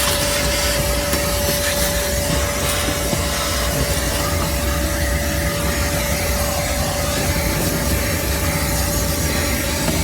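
Vacuum cleaner running steadily, its motor giving a constant whine over a loud rush of air.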